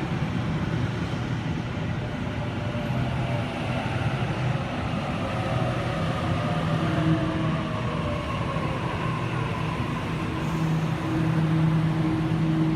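Waratah electric train pulling into the platform, its motor whine falling slowly in pitch as it slows, then a steady low hum as it comes to a stand.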